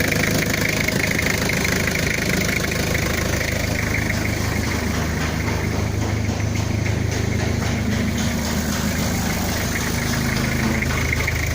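Toyota 3L four-cylinder diesel engine idling steadily.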